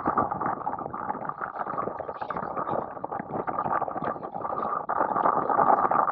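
Wind buffeting the microphone mixed with water splashing and rushing, a constant crackling rush while riding on the water.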